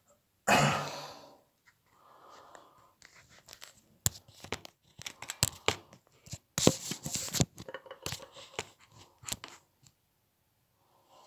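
Close-up handling noises: rustling and tearing of a small wrapper with scattered clicks and scrapes, as a small wound is cleaned. The loudest is one noisy rip about half a second in.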